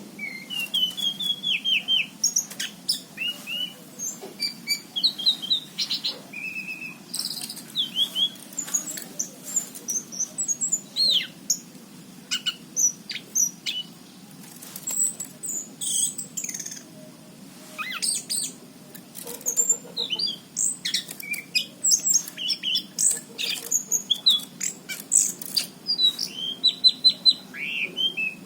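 Anis cendana (orange-banded thrush) singing steadily, a rapid, varied stream of short whistles, slurred chirps and trills with sharp clicking notes mixed in.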